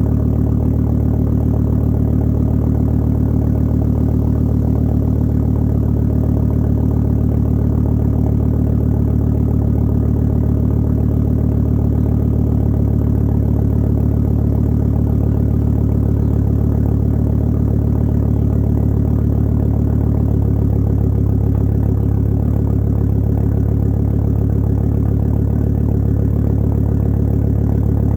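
Volvo V70 XC 2.4T's turbocharged inline five-cylinder idling steadily after a cold start, heard through a 3-inch exhaust with a catted downpipe and only a resonator, giving a deep, even exhaust note.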